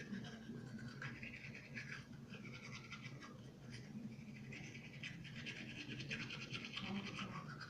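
Toothbrush scrubbing teeth in bursts of quick back-and-forth strokes.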